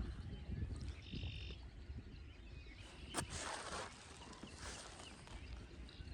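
Low wind rumble on the microphone with faint bird chirps over it. About three seconds in there is a sharp click followed by a brief rushing hiss, and a weaker hiss comes a little later.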